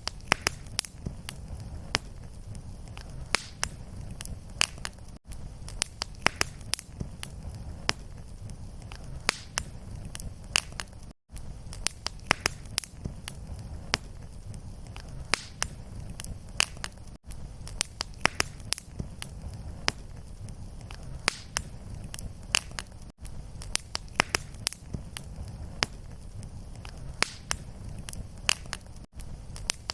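Fireplace fire crackling: a steady low rumble with frequent sharp pops and snaps. Brief gaps about every six seconds are the seams of a looped fire recording.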